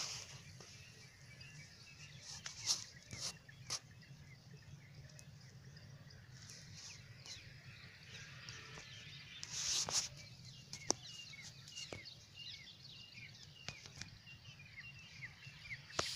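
Many small birds chirping in short, quick, falling calls, thickest in the second half, over a steady low hum, with a few sharp clicks and brief hissing bursts.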